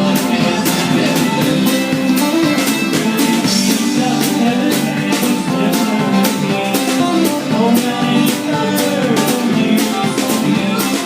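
Live band playing an instrumental passage of a bluegrass-rock song: guitar over a drum kit keeping a steady beat.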